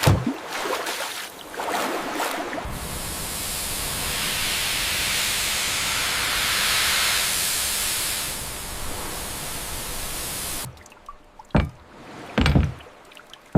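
Water rushing in a steady, loud hiss after a few uneven surges, cutting off suddenly about eleven seconds in. Two short dull thumps follow.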